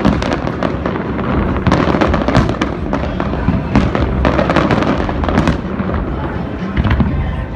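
Dense fireworks barrage: many shells bursting one after another in rapid, overlapping cracks and bangs over a constant low rumble.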